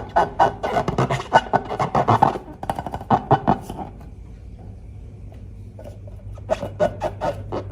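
Slime being squeezed and worked by hand: rapid sticky crackles and squelches that go quiet for a couple of seconds around the middle, then start again.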